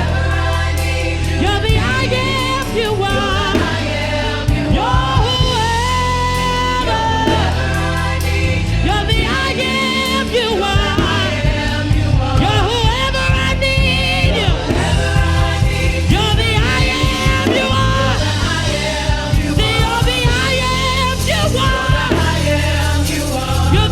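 Gospel worship music: voices singing wavering, bending runs over a band with a steady bass line.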